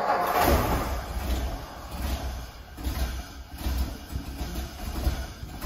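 1954 Ford's engine on a cold start with the choke pulled out, making a low, uneven pulsing that eases off a little toward the end.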